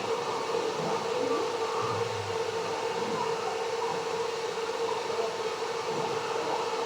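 A steady mechanical hum with one constant mid-pitched tone, like a small motor or fan running, with a few faint handling noises.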